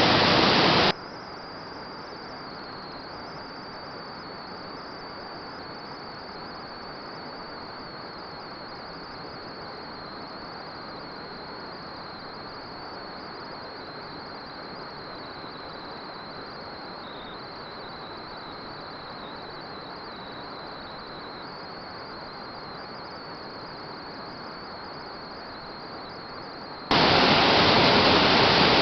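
Insects trilling continuously in one thin, high, slightly wavering note over a steady hiss. Loud rushing water briefly at the start, cutting off about a second in, and again near the end.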